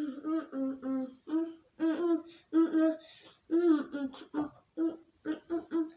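A voice humming a wordless tune in short, separate notes, with a brief hiss about three seconds in.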